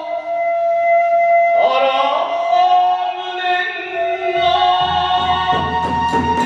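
Kagura hayashi music: a held, sliding melodic line carries the start, and about four seconds in a drum and evenly repeated metallic strikes from hand cymbals join it.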